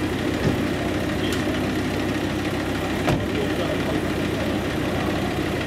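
BMW 2002 four-cylinder engine idling steadily, with a sharp click about three seconds in.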